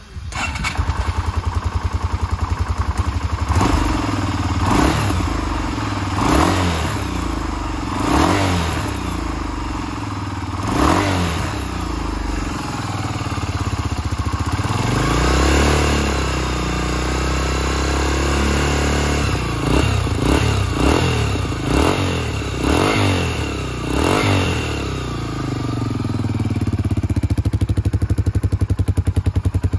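Yamaha SRV250's air-cooled V-twin engine, breathing through a Supertrap slip-on muffler, starts up and idles, blipped with a string of short revs. About halfway through there is one longer rev, then a quick cluster of blips, before it settles back to a steady idle.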